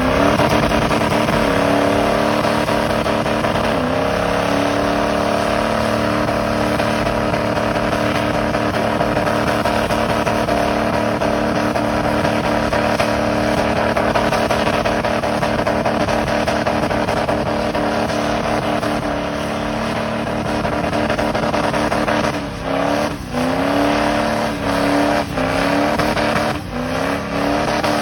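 Truck engine held at high revs during a burnout, over a rushing noise from the spinning tyres. Near the end the revs drop and climb back several times in quick succession.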